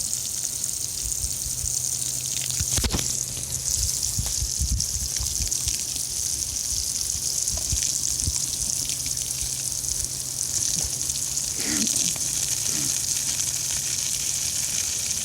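Garden hose spraying water in a steady hiss, with scattered low knocks and splashes.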